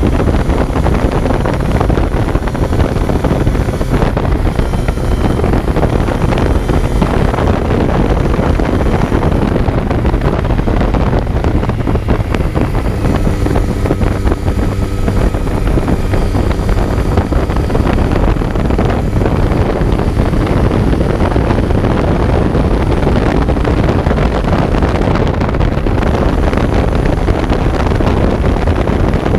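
Kawasaki Z900's inline-four engine running while the bike is ridden, heard on board under heavy wind noise on the microphone. Around the middle the engine note holds a steady pitch for a few seconds.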